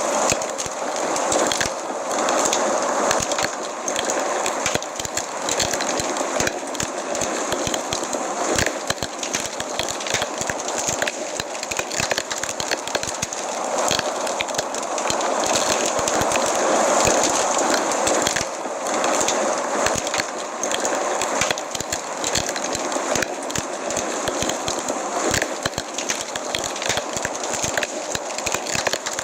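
Wood fire crackling in a fireplace: a dense run of irregular pops and snaps over a steady hissing rush.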